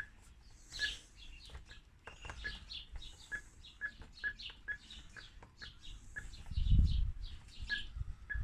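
Small birds chirping continuously with quick, repeated short calls. A dull low thump comes about two-thirds of the way through and is the loudest sound.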